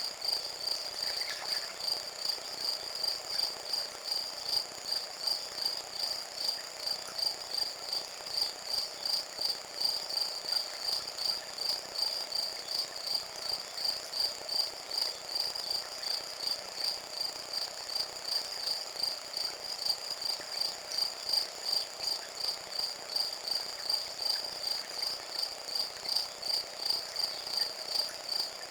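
Crickets chirping in a steady, even rhythm of about two pulses a second.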